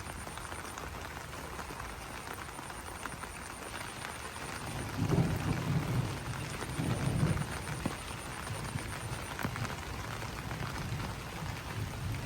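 Steady rain falling on banana leaves: an even patter of many small drops. Low rumbling swells come in about five and seven seconds in.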